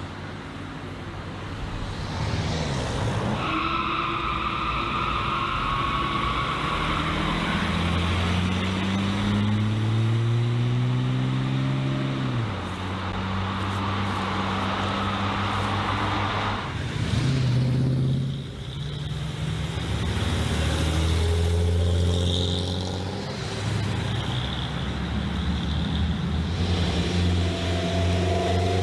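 Mercedes-AMG car engines revving and accelerating in a run of short clips that cut from one to the next. The engine pitch climbs steadily and drops back at each gear change.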